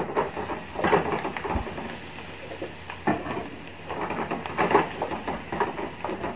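Tomatoes and herbs sizzling in hot ghee in an aluminium pan, with a wooden spatula stirring and scraping against the pan a few times at irregular intervals.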